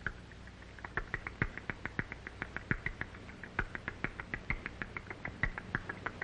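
Rapid run of short, high squeaks and chirps, several a second, like hungry young birds begging, over a steady low hum from the old film soundtrack.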